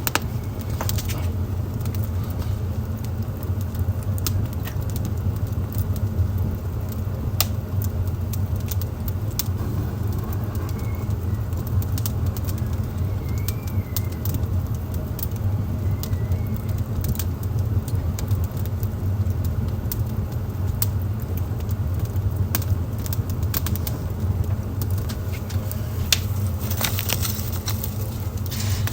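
Wood fire burning in a fireplace: irregular sharp crackles and pops over a steady low rumble. Three faint short warbling chirps come near the middle.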